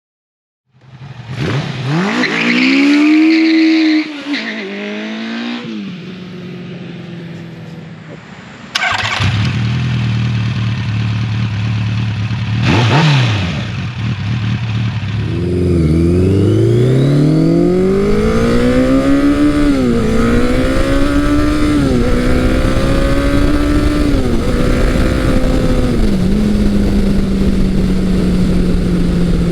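Big-bore motorcycle engine accelerating hard, its pitch climbing and dropping back at each gear change. After a cut, a motorcycle engine idles with a quick rev, then pulls away through several upshifts about every two seconds before holding a steady speed near the end.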